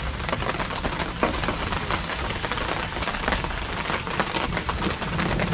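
Rain falling, a steady hiss with many small drop hits on the surfaces around.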